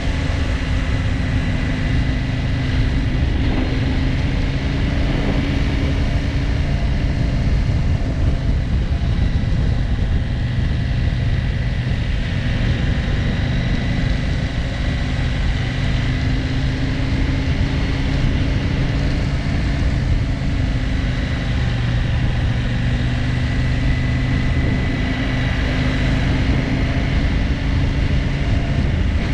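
KTM 790 Adventure R parallel-twin engine running at a fairly steady speed, its pitch wavering slightly, over a steady rushing noise. The engine is suffering a fault that the owner traced to a failed immobiliser, which he suspects put it into safe mode.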